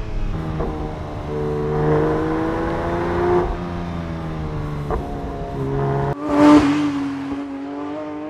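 Porsche 911 GT3 S/C's naturally aspirated flat-six engine running and revving, its pitch rising and falling several times. About six seconds in it cuts out briefly, then comes back with a loud burst.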